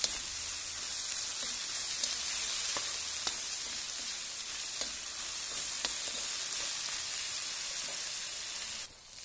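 Sliced okra sizzling steadily as it fries in oil in a wok, with a few faint clicks through it. The sizzle drops suddenly near the end.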